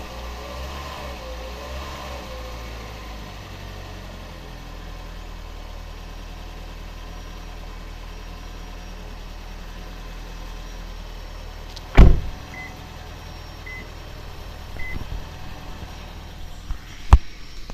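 Second-generation Toyota Prius making an unexplained abnormal noise: a steady low hum, with a wavering whine over it in the first few seconds. About twelve seconds in comes a loud thump, then three short high beeps about a second apart, and a sharper knock near the end.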